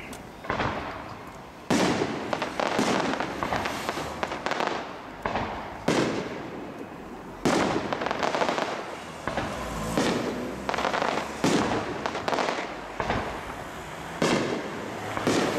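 Aerial firework shells bursting one after another, a sharp bang roughly every one to two seconds, each followed by a crackling, rumbling tail.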